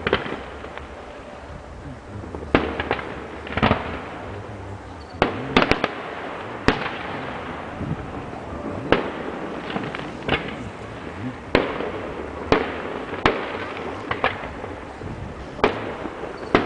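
Fireworks display: sharp bangs at irregular intervals, roughly one a second, each with a short echoing tail, over a steady noisy background.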